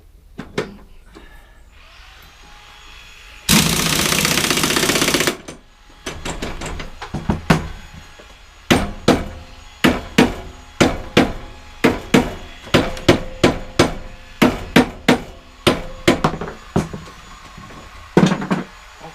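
A power tool, an impact gun on the mower's blade bolt, runs in one loud burst of nearly two seconds. It is followed by a long series of sharp metallic knocks, about two a second.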